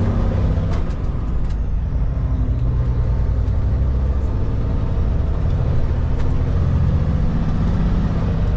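Kenworth K200 cabover road train's Cummins diesel engine running steadily at highway speed, with a low, even drone and road noise, and a couple of faint clicks in the first two seconds.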